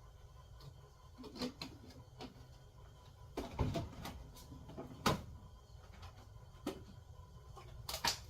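Irregular knocks and clunks, a handful of louder ones spread through, over a low steady hum in a small room.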